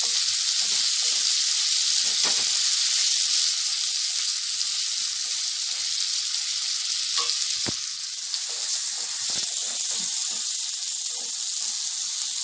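Tomato-and-spice masala sizzling steadily in oil in a kadhai as boiled potato pieces are stirred through it with a wooden spatula, with a few light knocks of the spatula against the pan.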